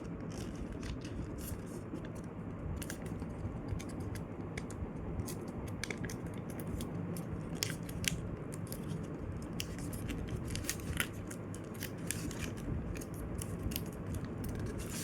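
A sheet of paper being folded and creased by hand: irregular short crinkles and rustles as the fold is lined up and pressed flat, over a steady low background hum.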